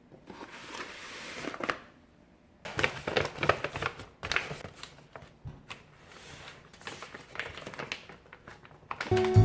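Rustling and crinkling of plastic packaging, with light irregular clicks and taps of food items and containers being handled. Acoustic guitar music comes in just at the end.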